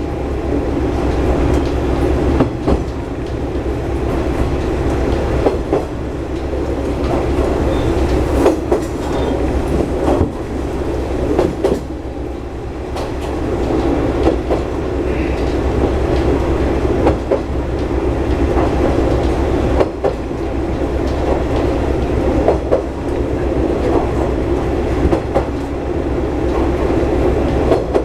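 A diesel railcar running along the line: a steady low engine drone with the clatter of wheels over rail joints, many irregular sharp clicks throughout.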